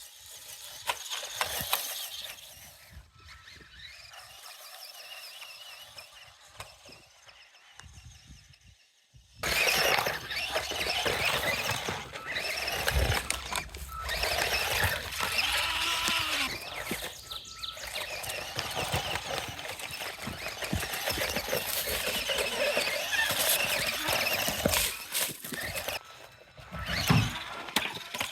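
BlackZon Spryte micro RC truck running: a high electric motor whine with scraping and clattering from the little truck. It gets much louder suddenly about nine seconds in.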